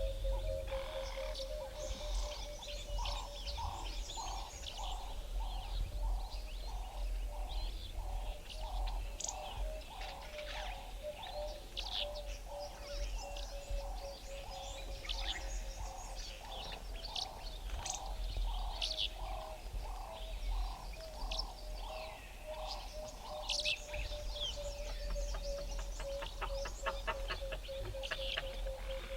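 Wild birds calling in valley bushveld: many short high chirps and twitters, with a long, evenly paced series of low notes, about one and a half a second, that stops a little over three-quarters of the way through. Under them runs a steady low hum-like tone, and near the end there is a quick run of rapid clicking trills.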